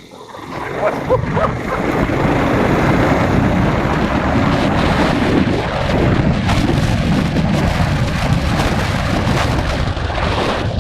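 Motorcycle riding with its engine running under wind buffeting the microphone. The noise builds over the first two seconds, then holds steady and loud.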